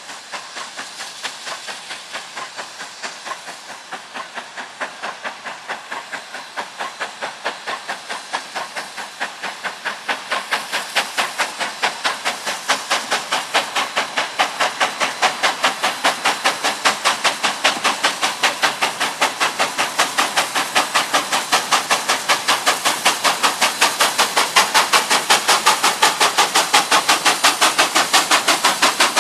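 Narrow-gauge steam locomotive working, with a regular run of exhaust chuffs over a steam hiss. The chuffs grow steadily louder as the engine draws closer.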